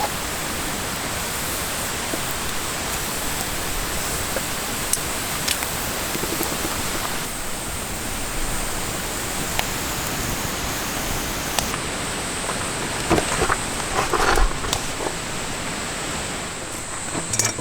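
Chicken karaage deep-frying in hot oil in an iron wok: a steady sizzle like rain, with scattered pops and a few louder crackles near the end.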